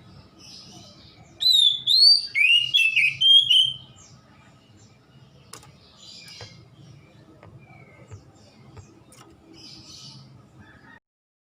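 Oriental magpie-robin (kacer) singing: a loud run of quick, sliding whistled notes lasting about two seconds, then a few faint chirps over a low hum until the sound cuts off near the end.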